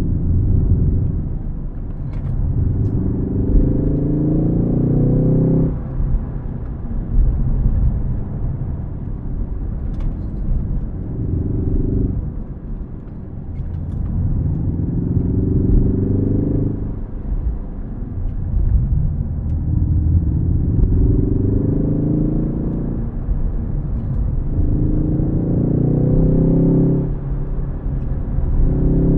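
Ford Focus ST engine pulling hard, its note climbing under throttle and then falling away sharply, about five times in a row, over steady low road rumble.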